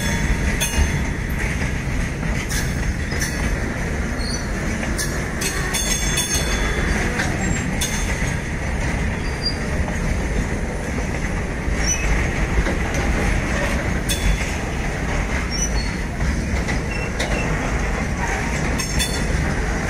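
Freight wagons rolling past on steel rails: a continuous rumble of wheels with scattered metallic clanks and brief high wheel squeals.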